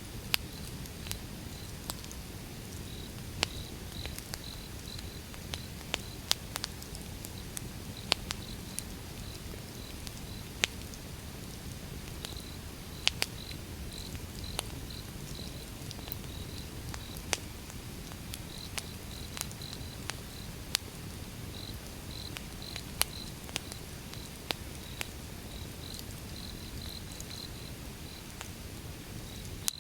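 Wood fire crackling: irregular sharp pops and snaps over a low steady rumble of burning logs. An insect chirps in short, high, rapid pulses that come in clusters throughout.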